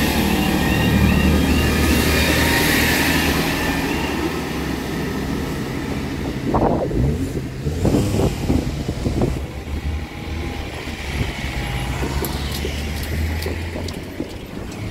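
A Transport for Wales diesel train running over a level crossing with a low engine and wheel rumble, while the crossing's warbling two-tone alarm sounds and cuts off about four seconds in. A few irregular knocks follow in the middle, then a steady low hum while the barriers lift.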